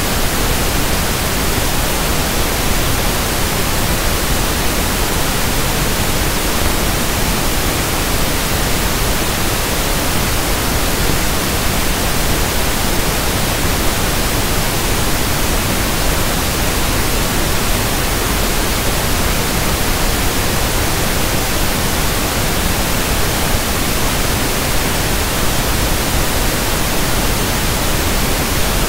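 Synthetic pink noise (1/f noise): a steady, even hiss across the whole range of pitch, without change.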